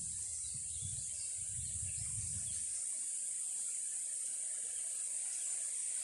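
Steady high-pitched insect chorus, with wind rumbling on the microphone for the first two to three seconds.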